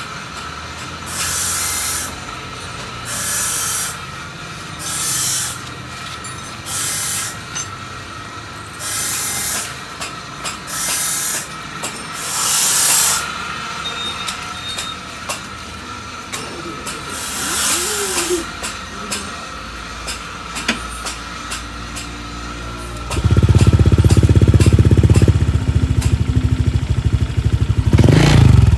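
A series of short hissing bursts, then about 23 seconds in a motorcycle engine breathing through an aftermarket copy CMS Dr.Sound exhaust with a Gen 1 glass-wool baffle starts running loudly, revved near the end. This is a sound check of the freshly fitted baffle.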